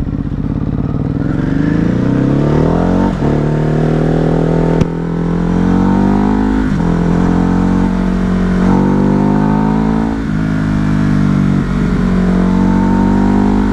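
Ducati Hypermotard's L-twin engine accelerating through the gears: the pitch climbs, then falls sharply at upshifts about three, seven and ten seconds in, and climbs again after each.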